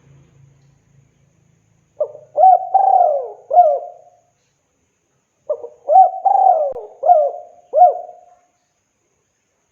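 Spotted dove (tekukur) cooing its territorial and advertising song. It gives two phrases of about five coos each, about a second and a half apart.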